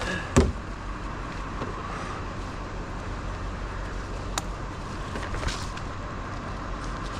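Bucket truck's engine running steadily, with a sharp knock about half a second in.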